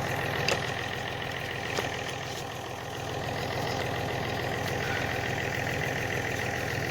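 Tractor engine idling steadily, with two short clicks in the first two seconds.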